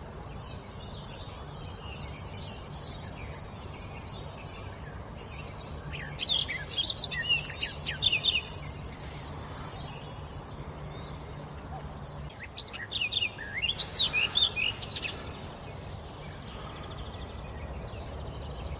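A songbird singing two rapid phrases of quick, high notes, one about a third of the way in and another about two-thirds in, over steady background noise.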